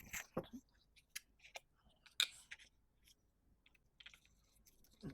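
Scattered short clicks and light knocks, irregularly spaced, with a brief rustle a little over two seconds in: small hand-handling noises of tools or parts.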